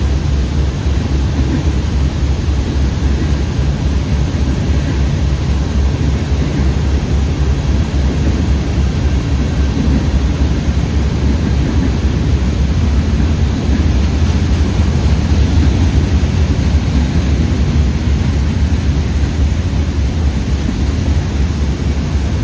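Freight train rolling steadily past close by, a continuous deep rumble of wheels on the rails.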